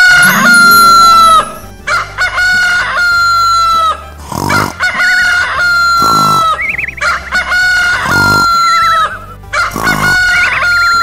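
Rooster crowing over and over: about five long crows, each held on one pitch and sagging slightly at the end.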